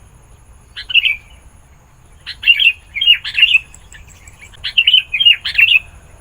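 Sooty-headed bulbul (kutilang) singing loudly: a short phrase about a second in, then two longer phrases of quick, rising and falling notes.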